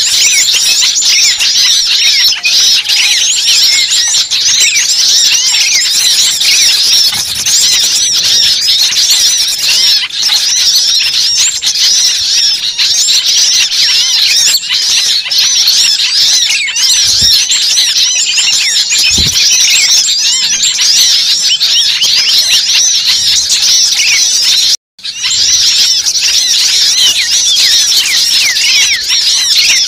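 A dense, agitated chorus of many small songbirds chirping and twittering at once, high-pitched and unbroken: a bird-lure recording made to sound like a noisy flock and draw birds in. About 25 seconds in it cuts out for a moment and then resumes.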